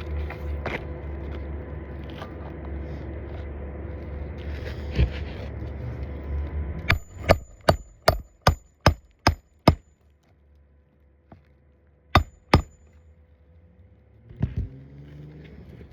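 Hammer strikes on an asphalt-shingle roof during a shingle repair: a quick run of eight sharp blows, about three a second, then two more a couple of seconds later. A steady low hum sits under the first half.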